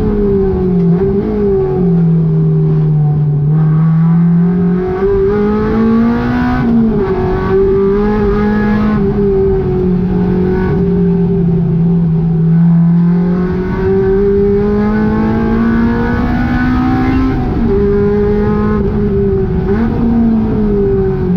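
Honda K20 four-cylinder engine in a GTI being driven hard on track, screaming at high revs. Its pitch climbs and drops back again and again as it is revved out and then backed off for shifts and corners.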